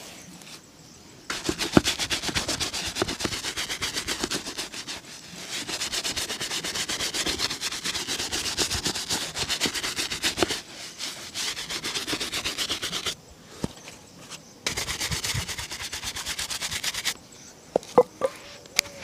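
Rapid back-and-forth rubbing strokes buffing a shoe during a shoe shine. The strokes start about a second in, run on for a long stretch, pause, then go on briefly again, with a few light knocks near the end.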